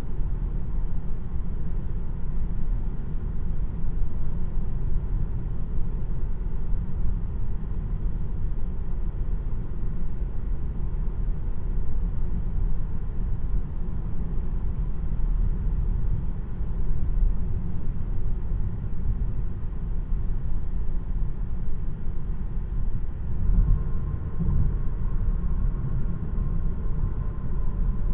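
Steady low road and tyre rumble inside the cabin of a 2026 Tesla Model 3 driving along, with no engine note since it is electric. A faint thin whine joins the rumble about 23 seconds in.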